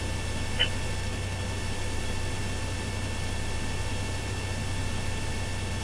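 Steady hiss and low hum of a police radio channel between transmissions, with one brief high blip about half a second in.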